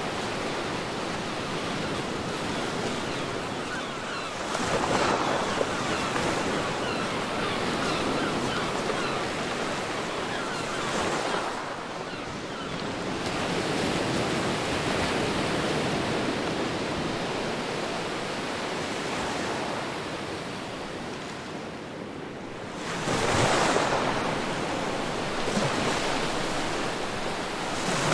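Ocean waves washing onto a beach in a continuous surf, with louder surges about five seconds in, around eleven seconds, and twice near the end.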